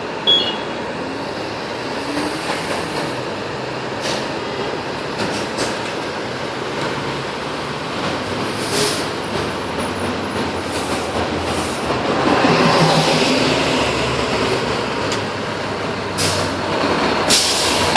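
Fire apparatus engines running with a steady rumble, swelling for a couple of seconds about two-thirds of the way through, with a few short sharp hisses of air.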